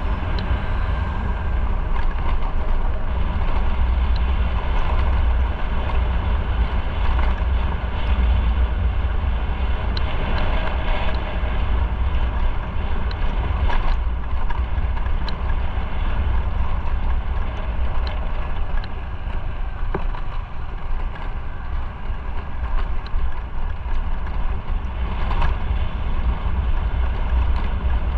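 Motorcycle under way: wind buffeting the microphone in a heavy, steady low rumble over the engine running, with scattered small ticks.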